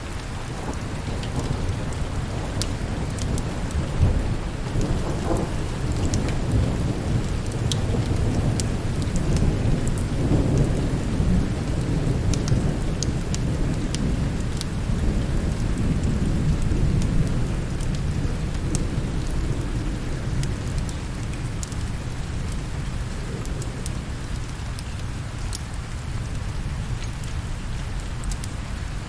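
Steady rain with a long rolling rumble of thunder that builds over the first few seconds, is strongest around the middle and dies away well before the end, with scattered sharp ticks throughout.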